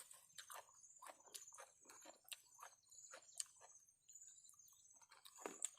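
Faint, wet chewing and mouth clicks of a person eating spicy papaya salad, an irregular run of short clicks a few times a second with a brief pause around the middle.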